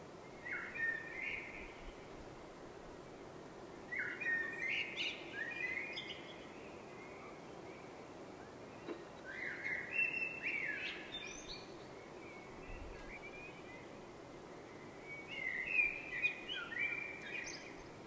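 A songbird singing four short phrases of quick, rising and falling chirps, a few seconds apart, over a steady low background noise.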